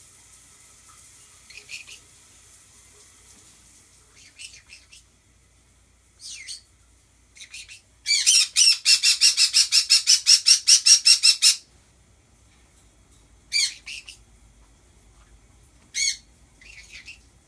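Pet birds calling: short single squawks scattered through, and in the middle a run of loud screeches, about five a second for some three and a half seconds. A faint running shower hisses in the first few seconds.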